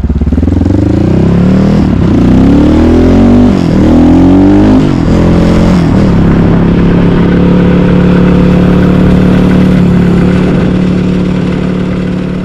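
Asix XT97 300cc enduro motorcycle engine accelerating hard. Its pitch climbs and drops back three or four times in the first five seconds as it goes up through the gears, then it runs at a steady speed and fades out near the end.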